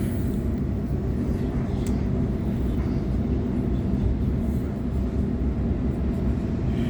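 Running noise of a Sydney Trains Waratah electric multiple unit heard from on board: a steady low rumble of wheels on the track as the train travels along.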